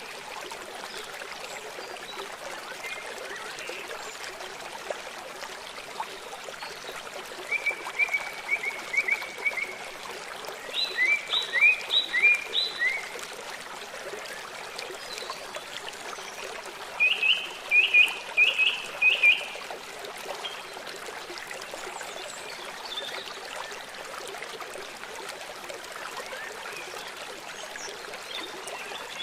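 Forest birdsong over the steady rush of a stream: a bird sings three short phrases of quick repeated high notes, with pauses of several seconds between them.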